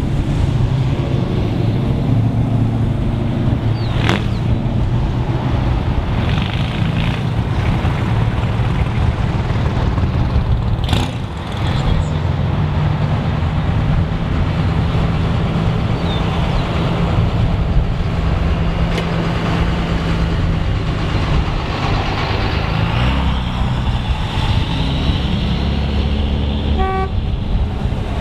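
Cars with open, uncapped exhaust headers rumbling by in a slow procession, their engines loud and low-pitched. A horn toots briefly near the end.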